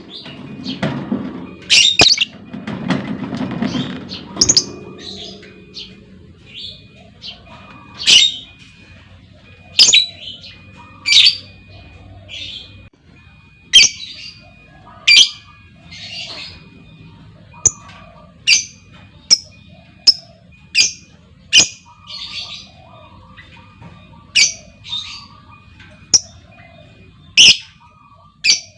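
Female lovebird giving short, sharp chirping calls one after another, spaced irregularly at first and then coming about once a second from the middle on. A low rumble sits under the first few seconds.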